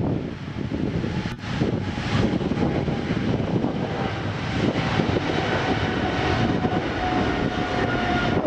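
Jet airliner's engines at takeoff power: a loud, steady rush of noise with a thin whine running over it.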